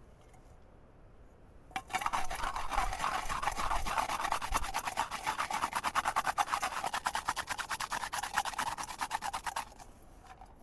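Rapid rasping scraping strokes, many a second and evenly paced, starting about two seconds in and stopping suddenly about eight seconds later.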